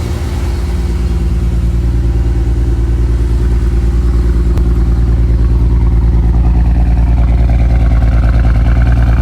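Ford Falcon XR6 Turbo's 4.0-litre turbocharged inline-six (Barra) running with a misfire from two failed ignition coils, a steady pulsing engine note that grows slowly louder.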